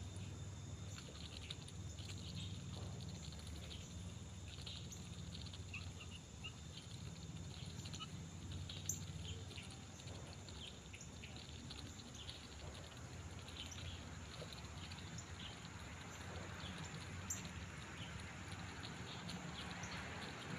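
Faint, scattered short chirps and ticks from small wild animals, over a steady low hum.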